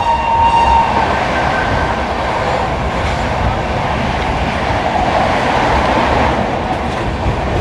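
Passenger train running along the track with a steady rumble and rattle of wheels on rails. The locomotive horn's steady tone cuts off about a second in.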